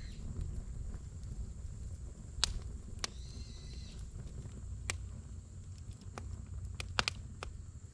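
Wood campfire burning in a fire pit: a low steady rumble with sharp, irregular crackles and pops from the burning logs, two of them close together near the end. A brief faint whistle sounds about three seconds in.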